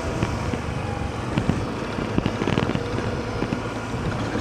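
A motor vehicle running, with steady noise and many irregular short knocks.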